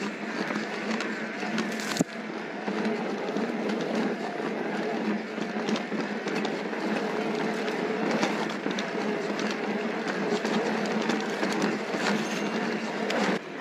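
Mountain bike rolling over a rough dirt trail: a steady rumble of tyres on dirt and gravel, with frequent clicks and rattles from the bike.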